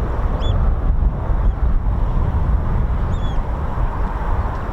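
Strong wind buffeting the microphone, a heavy low rumble, with a few short high bird chirps about half a second and three seconds in.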